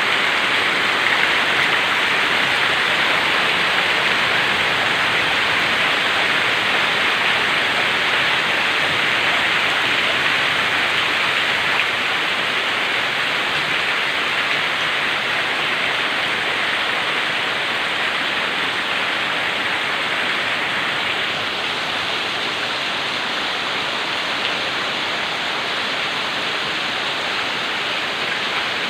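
Heavy rain pouring steadily as an even, dense hiss, easing off a little about three-quarters of the way through.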